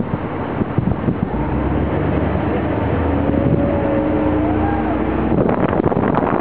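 Wind buffeting the microphone, with a motorboat engine running steadily underneath from about a second in until about a second before the end.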